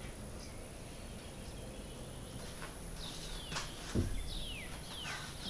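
Bird calling, a run of short falling chirps in the second half, over a faint steady high whine. There is a single sharp knock about four seconds in.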